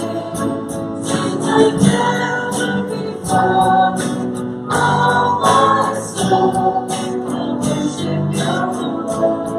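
Voices singing together to guitar accompaniment, with an even strummed or percussive rhythm.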